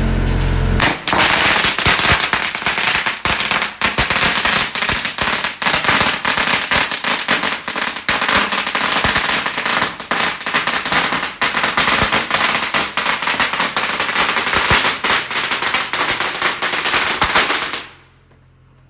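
A long string of firecrackers going off in a rapid, dense crackle of bangs for about seventeen seconds, stopping abruptly near the end. A steady low hum is heard before the firecrackers start.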